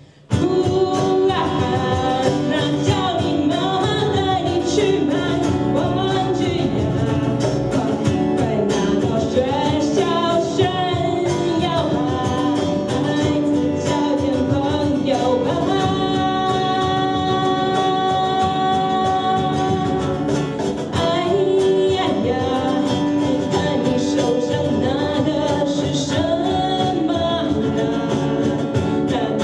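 Live rock band playing, with guitars, drums and singing, coming in at full volume right after a near-silent pause.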